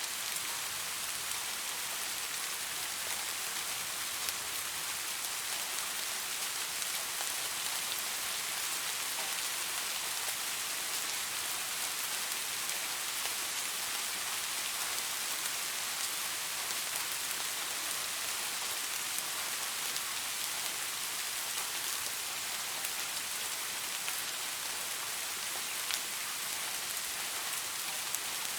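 Steady rain falling on leaves, an even hiss with scattered drop patters.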